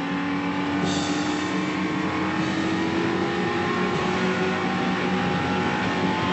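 Race car engine running, its note rising slowly and steadily in pitch over a hiss.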